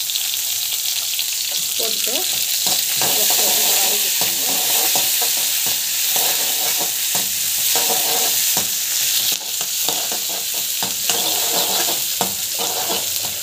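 Onions, green chillies and curry leaves sizzling in hot oil, the tempering for upma, with a steady hiss. A perforated steel skimmer stirs them, scraping and knocking against the pan again and again.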